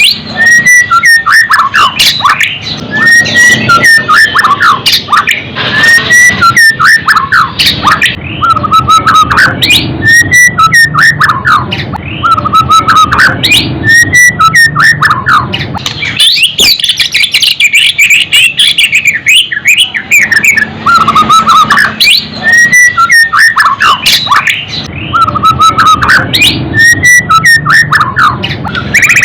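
White-rumped shama (murai batu) singing loudly and continuously: repeated phrases of clear whistles followed by rapid high chattering notes, a new phrase every couple of seconds.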